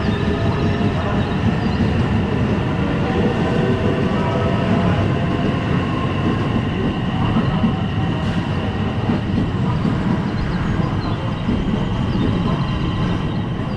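Electric commuter train running alongside the platform: a loud, steady running noise with faint steady high tones over it.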